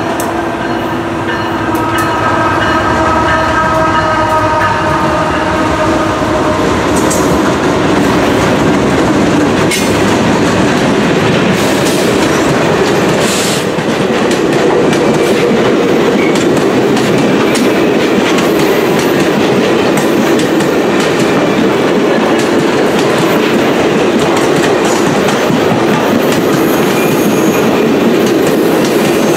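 Ringling Bros. and Barnum & Bailey circus train's passenger cars rolling past: steady wheel-and-rail noise with the clickety-clack of wheels over rail joints. A train horn's chord sounds at the start and fades out over the first few seconds.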